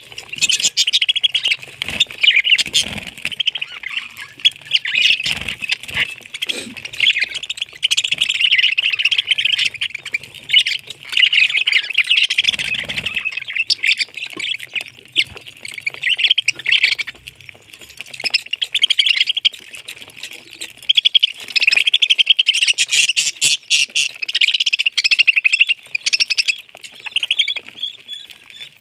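Parrot chirping and chattering in a dense run of high, rapid calls that breaks off briefly now and then, with a few soft low thumps.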